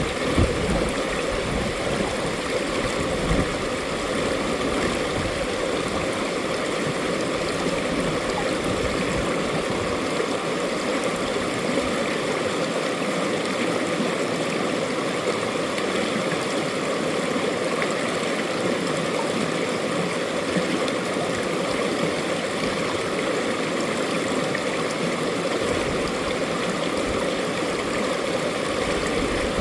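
Mountain valley stream flowing steadily over rocks, an even rushing and gurgling of water.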